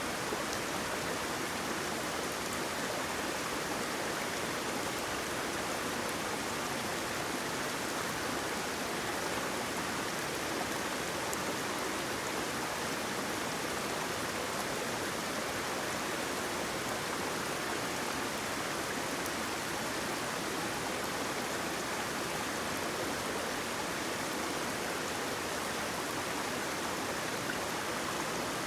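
Waterfall water running steadily: an even, unbroken hiss with no single splashes or changes standing out.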